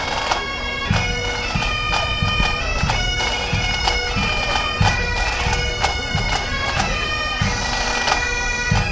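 Bagpipes playing a tune over a steady drone, with a regular low beat beneath.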